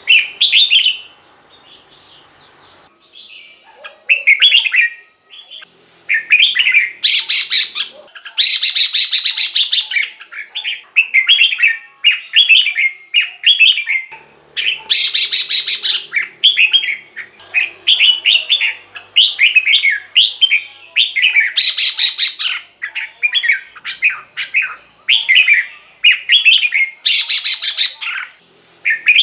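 Red-whiskered bulbul singing: short, bright, warbling phrases in quick succession, broken every few seconds by louder, harsher notes.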